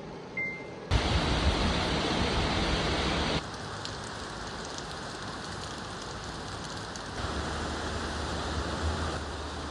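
Steady hiss of falling rain. Its level and tone jump abruptly about a second, three and a half and seven seconds in, as the recording cuts from one shot to the next.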